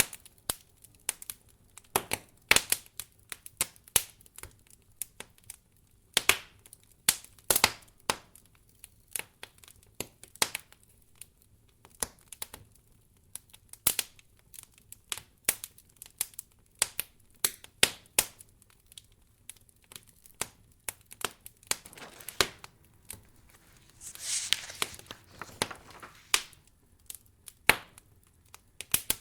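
Wood fire crackling in a fireplace: irregular sharp pops and snaps, some close together and some spaced out, with a brief soft rush lasting about a second and a half near the end.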